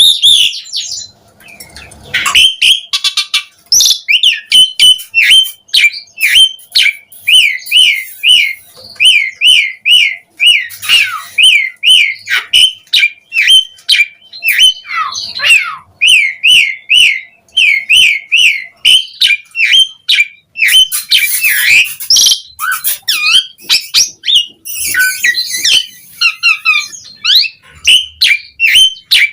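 Asian pied starling (jalak suren) singing loudly: a fast run of repeated whistled, bending notes, about three a second, broken by harsh chattering squawks.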